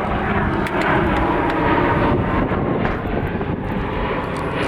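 Fixed-wing airplane flying overhead, a steady engine noise over street ambience.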